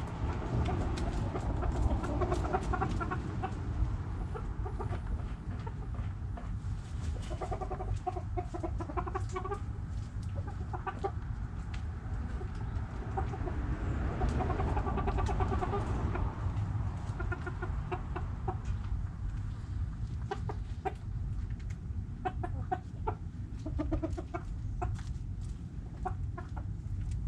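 Several backyard hens clucking on and off, with scattered sharp clicks over a steady low rumble.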